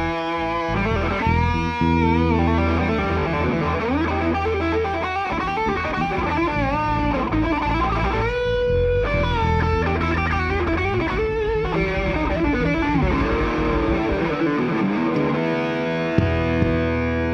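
Rock band playing live, led by a distorted electric guitar with notes bending up and down over a steady bass.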